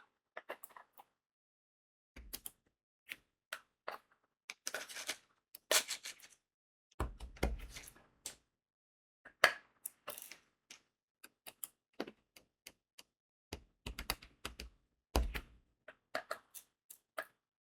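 Crystal rhinestones being set with a diamond painting pen on the sticky canvas: irregular light clicks and taps, with a couple of longer, denser stretches of clicking.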